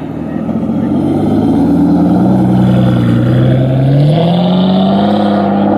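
Car engine accelerating, its pitch rising steadily with a sharper climb about four seconds in.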